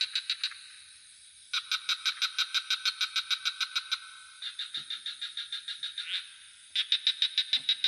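Frogs calling in trains of rapid, evenly spaced pulses, about six a second. Each train lasts two to three seconds, with short gaps between them, over a steady high-pitched insect trill.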